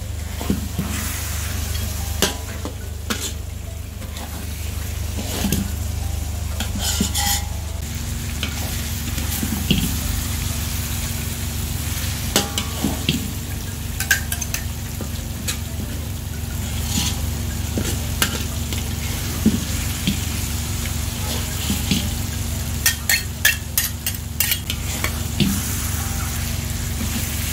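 A fish head sizzling as it fries in a thick chili and onion paste in a metal pot, while a metal spatula and ladle scrape and clink against the pot to stir and turn it. A steady low hum runs underneath, and a higher hum joins about eight seconds in.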